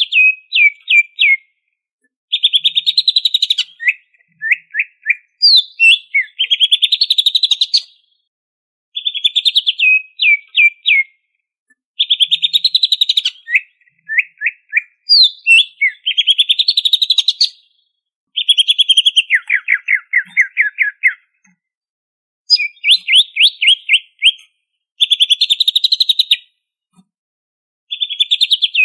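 Greater green leafbird (cucak ijo) singing vigorously in repeated phrases of rapid, fast-chattering notes, each phrase about two seconds long with short pauses between. Some phrases end in quick downward-sliding notes, and the song is packed with varied filler phrases (isian).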